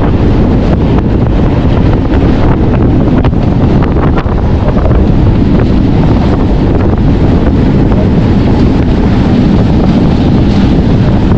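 Wind buffeting the microphone over the steady running noise of a moving MEMU passenger train.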